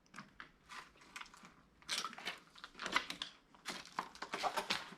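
Irregular crunching and crackling of debris, with bunches of sharp crackles and scrapes coming and going.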